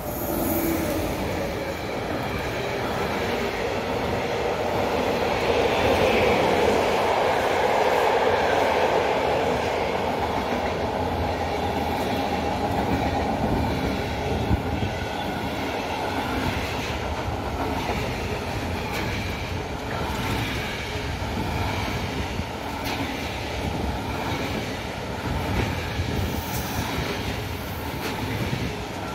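Bombardier Traxx class 186 electric locomotive passing, followed by a long train of container flat wagons rolling by. It swells to its loudest within the first ten seconds, then settles into a steady rumble with the clatter of wheels over rail joints.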